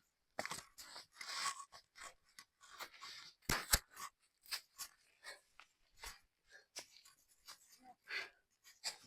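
Leaves rustling and stems snapping as chilli plants are picked by hand, in irregular short crackles. A sharp double knock comes about three and a half seconds in.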